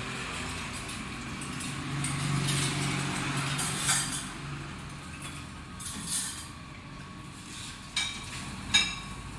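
Restaurant background noise: a steady low hum that swells and fades about two to three seconds in, with a few sharp clinks later on.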